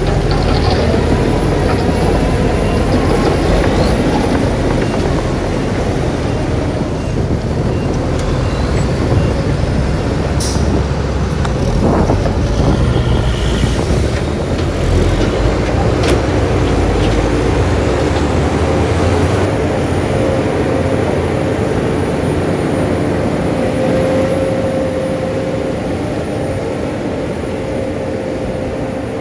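Heavy diesel earthmoving machinery running steadily, with a few sharp knocks around the middle; the deepest rumble eases off about two-thirds of the way through.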